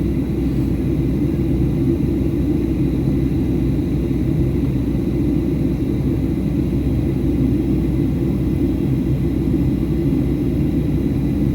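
Steady low rumble of a Boeing 737-800 in flight, engine and airflow noise heard from inside the passenger cabin, unchanging throughout.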